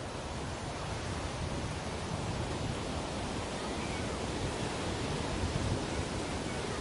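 Ocean waves washing onto a beach, a steady surf noise with gentle swells in level and no distinct breaks.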